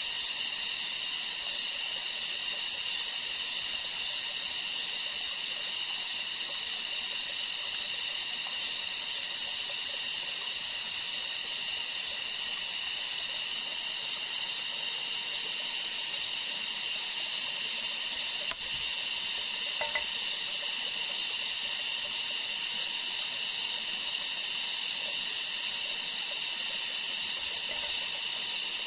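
Steady high-pitched hiss of outdoor ambience, with one faint click about two-thirds of the way in.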